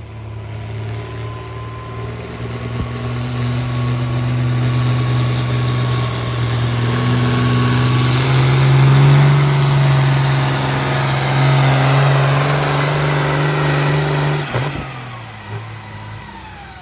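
Diesel engine of a pulling vehicle running under full load as it drags the sled down the track, steady and getting louder, with a high whine climbing through the run. About fifteen seconds in the throttle is cut: the engine drops off suddenly and the whine slides down as it winds down.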